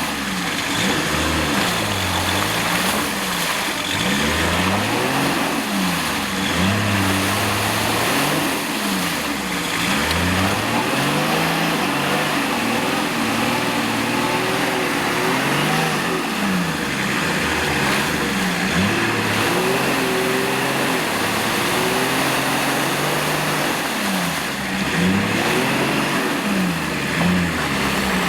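Off-road vehicle engine revving up and down over and over, the pitch rising and falling every second or two.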